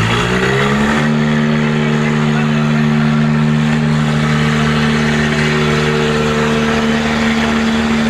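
Tractor diesel engine revving up hard over about the first second, then held steady at high revs under full load during a tractor tug-of-war pull.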